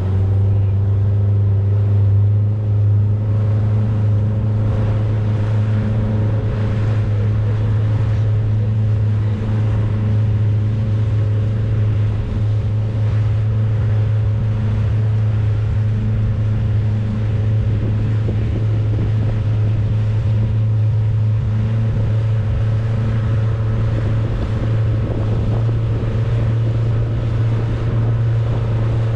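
A boat's motor running at a steady, unchanging speed while the boat is under way, a low continuous engine hum with a rushing noise of wind and water over it.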